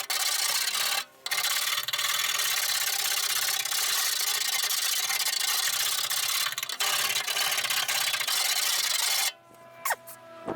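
Hand scraper rasping steadily against the steel of a car's boot lid, scraping off crusty surface rust and residue, with a short pause about a second in and stopping about a second before the end.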